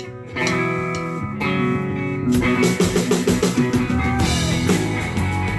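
Live rock band starting a song: two ringing guitar chords, then the drums and the full band come in a little over two seconds in and play on at a steady beat.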